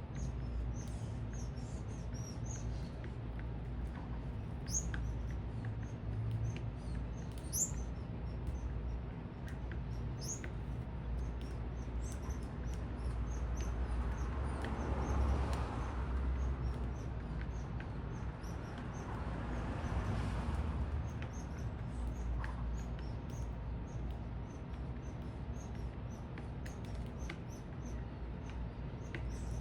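Small birds at a feeder chirping, many short high calls scattered throughout, over a steady low city rumble. Twice, around the middle, a broader wash of noise swells up and fades.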